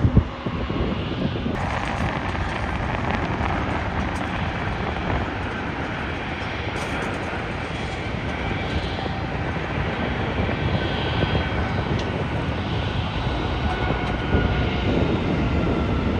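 Boeing 787-9 airliner's jet engines on landing approach: a steady roar with a high whine that slowly falls in pitch as it passes. The sound changes abruptly about a second and a half in.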